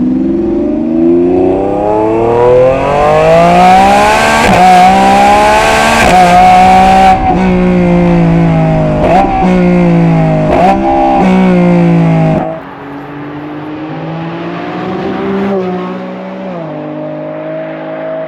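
Lamborghini Revuelto's V12 through a stainless QuickSilver cat-back exhaust, pulling hard with its note climbing for about four seconds. It then drops down through the gears, the pitch jumping up sharply at each shift about seven, nine and ten and a half seconds in. About twelve seconds in it goes much quieter and carries on at a lower, steadier note.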